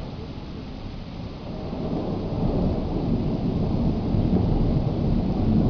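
Thunder rumbling over steady rain, swelling from about two seconds in.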